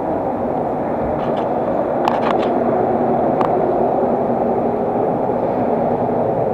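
Steady rumble of a passenger train running, with a few light clicks about one to three seconds in.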